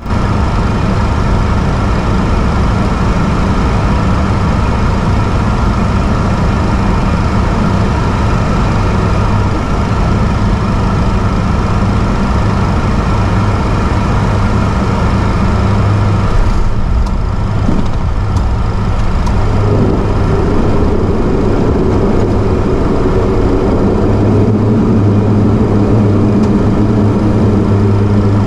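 The four Rolls-Royce AE 2100 turboprop engines and propellers of a C-130J Super Hercules droning steadily, heard from inside the aircraft. About two-thirds of the way through the drone briefly dips and changes pitch, with a new, higher tone joining in.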